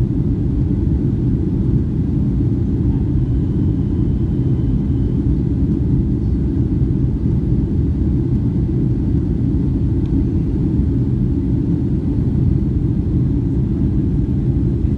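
Boeing 757-200 jet airliner running with a steady, loud low rumble.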